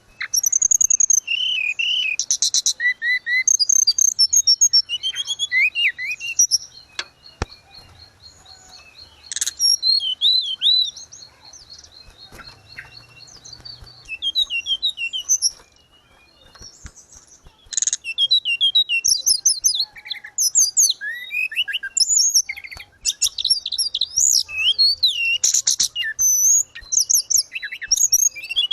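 Tledekan gunung songbird singing: rapid, varied high-pitched chirps, slurred whistles and trills, with a long even buzzy trill in the first half, a short lull past the middle, then dense, busy song to the end.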